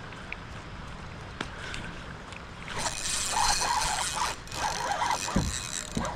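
Water splashing in loud irregular bursts that start about three seconds in, with a single low thump near the end, over a steady low rumble of wind on the microphone.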